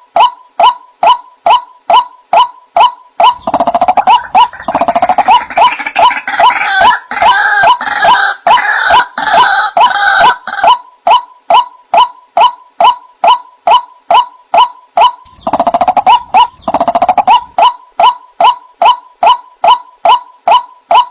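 White-breasted waterhen (ruak-ruak) calling: a steady, monotonous series of short pitched notes, about two to three a second. From about three seconds in until about ten, and again briefly later, the calls turn into a louder, denser, harsher chatter of overlapping notes.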